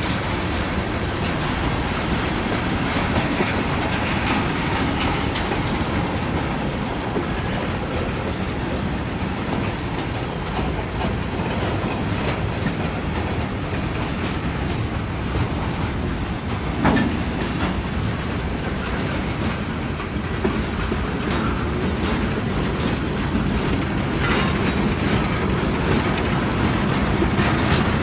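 Freight train cars rolling past close by, steel wheels clattering steadily over the rail joints, with one louder clank a little past halfway.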